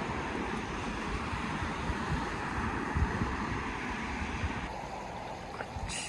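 Ducati Monster motorcycle on the move: wind rushing over the microphone above a low engine and road rumble. The hiss thins out about five seconds in.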